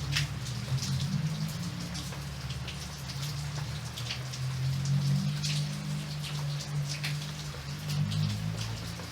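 Steady rain, with individual drops ticking irregularly on a surface, over a low steady rumble.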